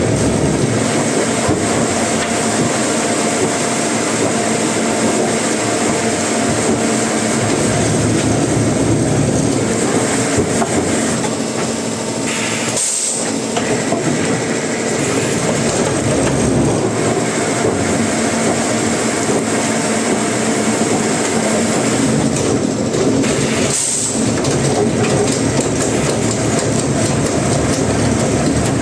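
Sawmill machinery running steadily: a loud, continuous mechanical din with a constant hum, breaking off for an instant twice.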